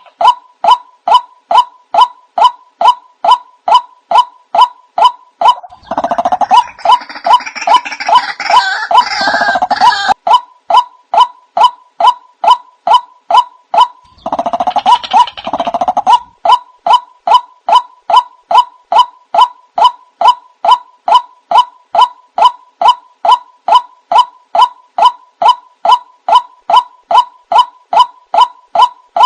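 White-breasted waterhen (ruak-ruak) calling as a lure: a long, even string of loud repeated notes, about two and a half a second. Twice it is joined by denser, rougher calling, once for about four seconds and again briefly near the middle.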